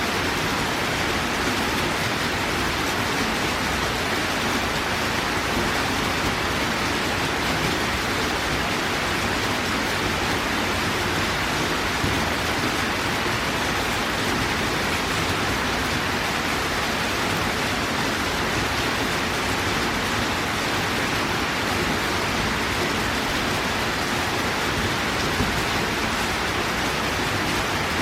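Heavy downpour: a steady, even hiss of rain falling.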